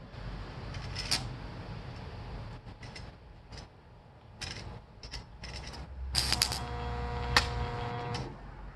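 Light metal clicks and taps, then an electric buzz of about two seconds starting about six seconds in that cuts off near the end, with a loud click in its middle.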